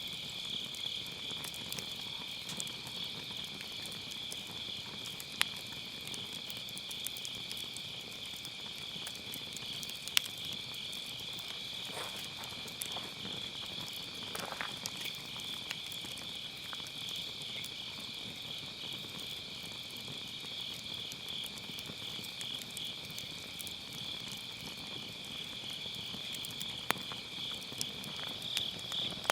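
A steady chorus of autumn crickets chirping without a break, with a few sharp crackles and pops from burning firewood, the loudest about five and ten seconds in and several more near the end.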